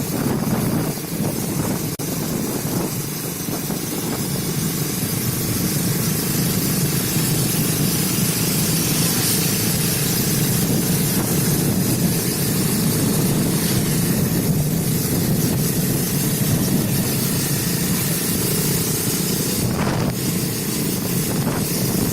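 Motorcycle riding along a road: steady engine and tyre noise under a constant hiss of wind on the microphone.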